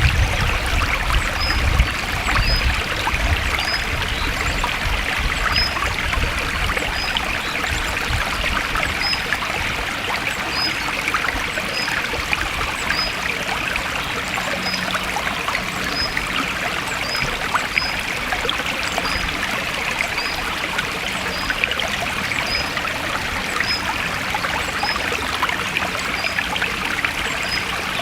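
A stream flowing steadily through a forest, a continuous rushing and trickling of water. A short, high chirp repeats about once a second above it.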